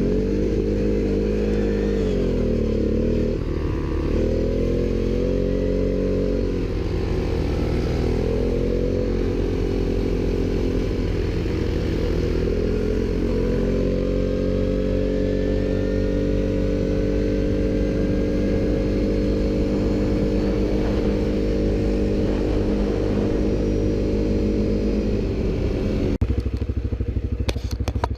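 ATV engine running under throttle, revving up and down for the first dozen seconds, then held at steady high revs for about twelve seconds. Near the end the engine note breaks off and gives way to a rougher clattering noise.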